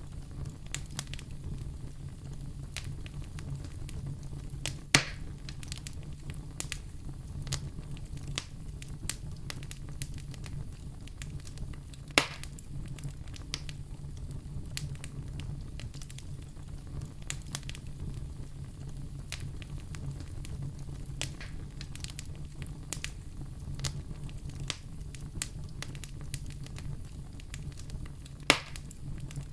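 Wood fire crackling steadily with many small snaps, and three much louder pops spread through it, over a low steady hum.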